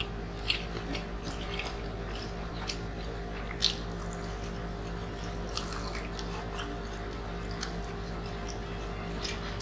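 Close-up eating sounds: scattered lip smacks and small wet clicks of people chewing grilled chicken eaten by hand, over a steady low hum.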